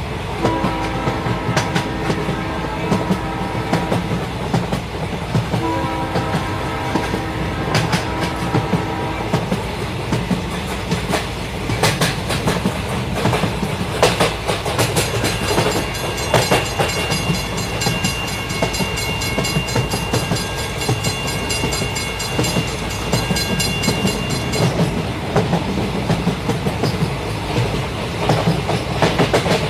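Battery-powered toy train running on its track with a steady motor hum and clicking wheels. Its built-in electronic sounds play twice in the first ten seconds, and a high beeping tune plays for about ten seconds in the middle.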